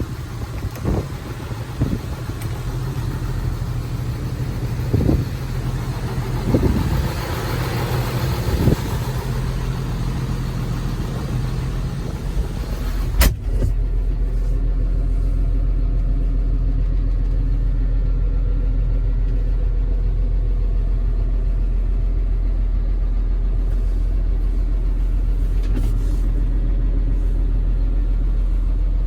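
John Deere 6920 tractor's diesel engine running at a steady idle, with several knocks in the first half and a sharp click about thirteen seconds in. After the click the engine settles into a steady low drone, with much less hiss than before.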